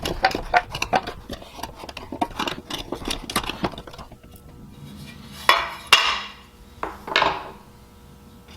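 Small metal parts and a metal can clinking and rattling as they are handled, followed by three louder metallic clanks, roughly half a second to a second apart.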